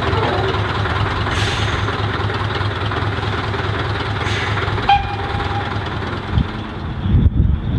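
Narrow-gauge train running, a steady rumble with a couple of faint clicks, a short high note about five seconds in and a few low thumps near the end.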